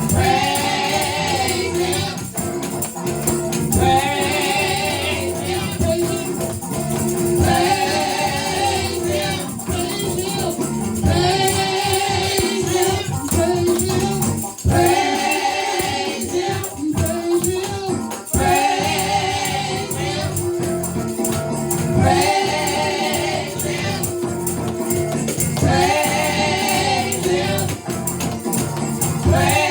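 Gospel praise team and choir singing live, repeating a sung phrase about every four seconds, with a tambourine shaking throughout.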